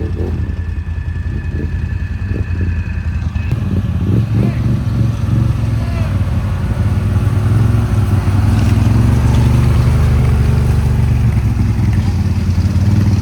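Can-Am Outlander ATV engine running under way, growing louder over the first several seconds and then holding steady, with a few clattering knocks early on.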